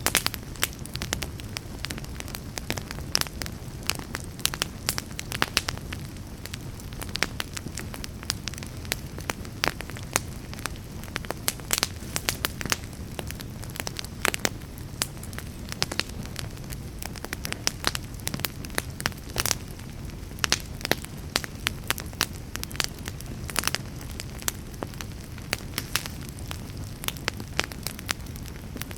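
Wood fire burning in a fireplace: a steady low rumble with many irregular sharp crackles and pops.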